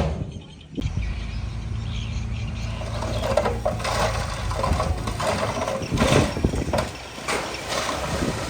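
Diesel engine of heavy earthmoving equipment running steadily, with scattered knocks and clanks over it. The engine sound settles in about a second in.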